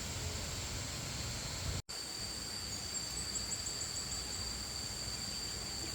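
Outdoor insect chorus: a steady high-pitched drone over a faint hiss, with a short run of faint rapid chirps a little past the middle. The sound drops out for an instant about two seconds in, and a second steady tone, slightly lower, joins after it.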